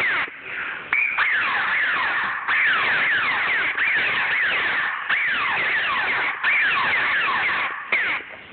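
Laser tag guns firing: electronic sound effects made of rapid falling pitch sweeps, several a second, in repeated bursts.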